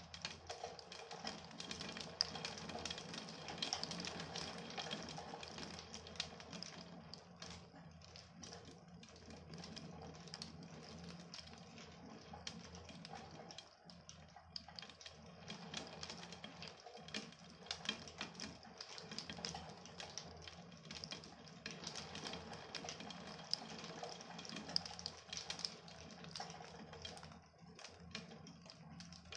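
Rain falling during a thunderstorm, heard as a dense, irregular patter of drops ticking on a hard surface.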